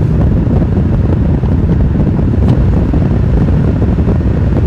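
Steady low rumble of a car on the move: road and wind noise, heaviest in the low end.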